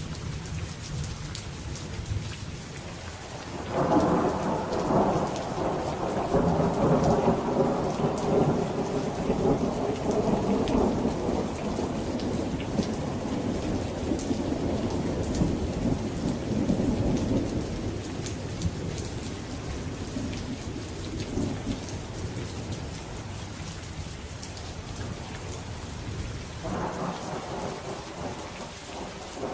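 Steady rain falling with rolls of thunder. One thunder roll starts about three and a half seconds in and rumbles on for more than ten seconds before fading, and another begins near the end.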